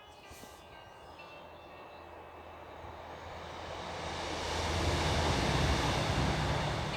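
A train passing: a low rumble and rushing noise that builds over several seconds, peaks about five seconds in, then starts to fade.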